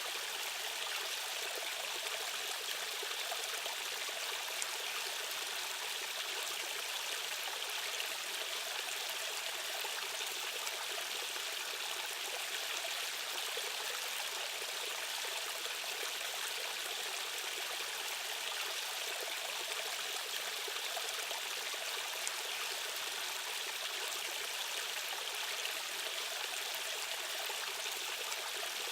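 Fast-flowing stream water rushing steadily, an even hiss with no pauses or changes.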